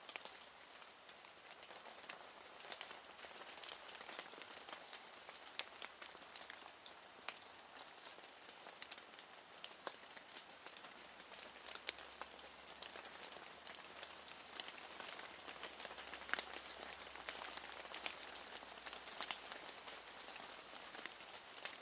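Steady rain, faint, with many individual drops tapping sharply against a window pane.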